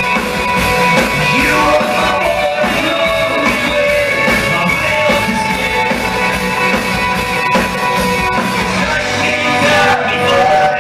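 Hard rock band playing live, with electric guitars, drums and a lead vocal.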